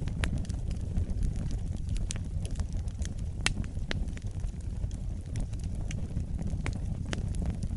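Wood fire burning in a fireplace: a steady low rumble of the flames with irregular sharp crackles and pops, a few a second.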